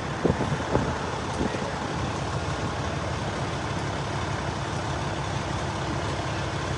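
A large vehicle's engine idling, a steady low rumble, with a few short knocks in the first second and a half.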